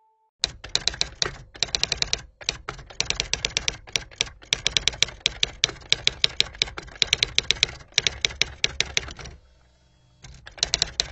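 Typewriter typing: fast runs of sharp key clicks, several a second, with short breaks between runs, a pause of about a second near the end, then one more short run.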